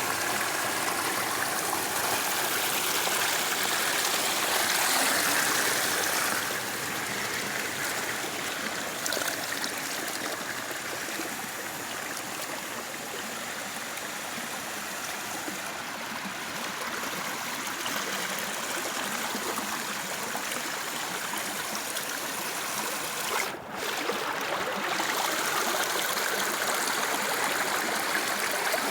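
Stream water running steadily, an even rushing noise with a brief drop in level about two-thirds of the way through.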